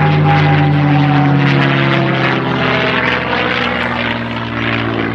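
P-51D Mustang's Packard-built Merlin V-12 engine and propeller running in flight. The pitch falls slowly and steadily as the aircraft passes and draws away.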